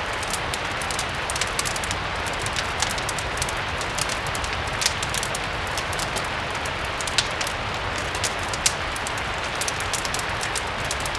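Steady rain hiss blended with a crackling wood fire: a continuous wash of rain over a low rumble, with frequent small crackles and a few louder pops from the fire.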